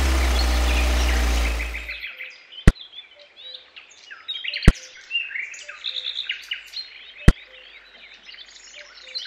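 An engine sound for the toy tractor runs loud and steady with a low hum for about two seconds, then fades out. After that birds chirp continuously, and three sharp clicks come, about two seconds apart, as white pebbles are set down along the pond's edge.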